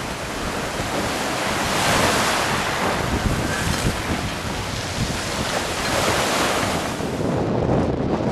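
Wind gusting across the microphone, with sea waves washing. The noise swells about two seconds in and again near six seconds.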